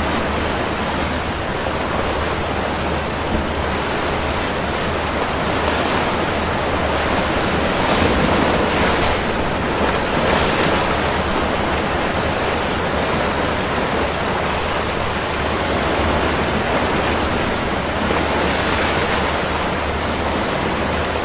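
Rough sea during a storm: waves and surf making a loud, continuous rush of noise that swells louder a few times, most strongly in the middle.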